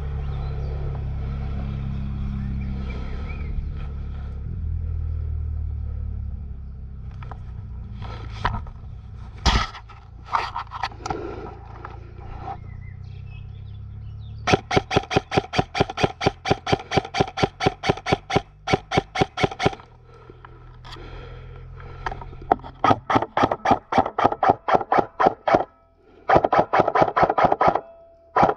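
Airsoft electric gun firing on full auto: long bursts of rapid, evenly spaced shots with a motor whine under them, three or four bursts in the second half. Before that, a low rumble and a few single knocks.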